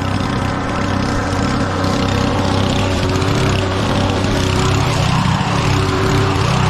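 Lawn mower engine running steadily under load.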